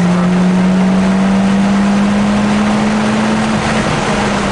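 Mitsubishi Lancer Evolution X's turbocharged four-cylinder engine under load on a straight, heard from inside the cabin, its note rising slowly. Near the end the driver lifts off for braking and the pitch drops back.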